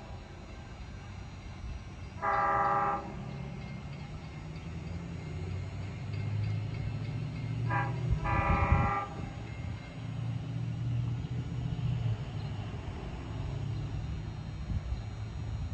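Long Island Rail Road diesel train sounding its horn, a chord of several tones: a long blast, then a short and a long, completing the long-long-short-long grade-crossing signal. Under the horn, a low engine rumble grows louder as the train approaches.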